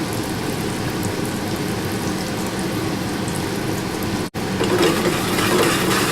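Breaded chicken breast pieces frying in oil and butter in a pan, a steady sizzling hiss. It breaks off briefly about four seconds in and comes back louder and busier.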